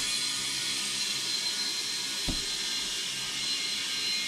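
Compressed air hissing steadily from an air chuck into a new garden-utility-vehicle tire, inflating it to seat the beads on the rim, with a thin high whistle over the hiss. A single dull thump about two seconds in.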